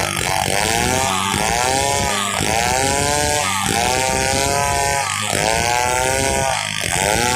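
Stihl 070 large two-stroke chainsaw running under load while cutting a log, its engine note rising and sagging in a steady cycle about once a second.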